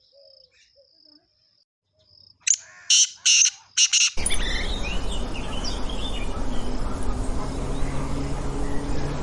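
Outdoor nature ambience. It opens with a faint high insect-like whine and soft chirps. A few loud, short bird calls come about two and a half seconds in. From about four seconds a dense bed of birds chirping runs over a steady rural background.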